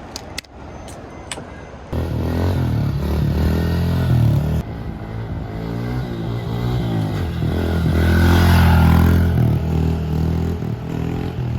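A few sharp clicks, then an engine starts about two seconds in and runs, its pitch rising and falling as it revs, loudest about eight seconds in.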